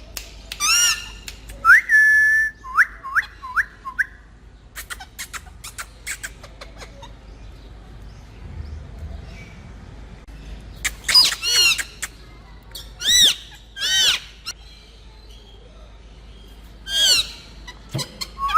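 Pet parrot calling: loud harsh calls and a held whistle near the start, then a quick run of short whistled notes. After a quieter stretch with faint clicks come more loud calls, four of them from about eleven to fourteen seconds in, and another near the end.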